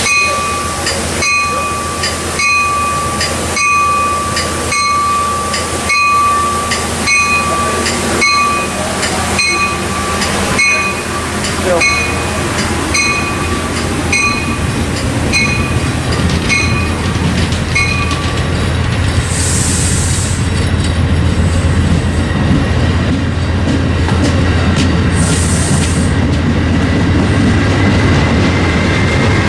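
A bell rings steadily, about three strokes every two seconds, as a commuter train's stainless-steel coaches start to roll past. The bell stops about two-thirds of the way through. Two short hisses of air follow, and the wheel rumble and clatter grow louder as the train gathers speed, with a faint rising whine.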